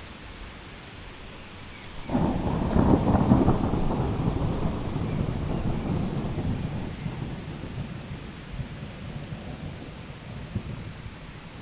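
Heavy rain falling steadily, with a thunderclap breaking in suddenly about two seconds in and rolling away in a long low rumble that fades gradually.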